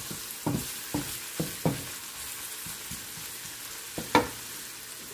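Minced garlic and ginger sizzling in hot oil in a wok, being sautéed until slightly brown while stirred with a wooden spoon. The spoon knocks against the pan a few times in the first two seconds, with one louder knock about four seconds in.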